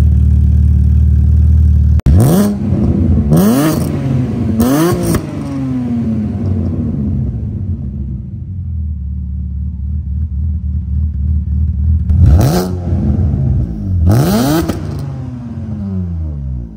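Alfa Romeo GT's 3.2-litre Busso V6 idling, then revved in five quick throttle blips, each rising and falling back to idle: three close together, then two more later.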